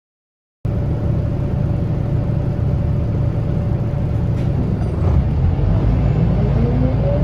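Scania L94UB bus, with its nine-litre five-cylinder diesel and ZF automatic gearbox, heard on board as a steady low rumble with a faint steady whine. About five seconds in, the rumble grows and a whine rises in pitch as the bus accelerates.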